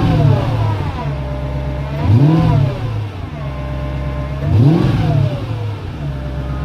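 Mercedes E55 AMG 5.4-litre V8 on a cold start, given three short throttle blips about two and a half seconds apart, each revving up and falling straight back to idle. It runs through modified stock mufflers with the secondary catalytic converters deleted.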